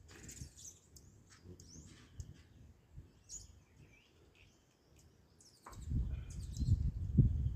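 Hummingbirds chirping: many short, high squeaky chirps and quick sweeping notes. From about two-thirds of the way in, a louder low rumble joins them and becomes the loudest sound.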